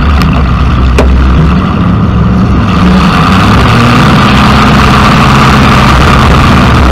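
Demolition derby car's engine running loud through its open vertical exhaust stacks, a steady low rumble, with a short knock about a second in.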